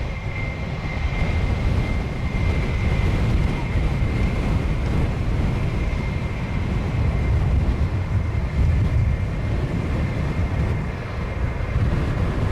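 Jet airliner engines running with a steady high whine, under a heavy low rumble of wind buffeting the microphone.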